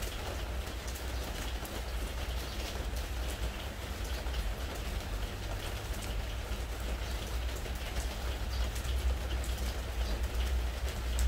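Rain falling on a preservative-treated wooden deck: a steady patter with many small, separate drop ticks, over a low steady rumble.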